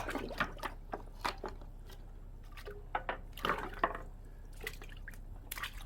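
Water dripping and splashing with wet squelches and a few light knocks as rinsed beef head pieces and bones go back into a pot of water.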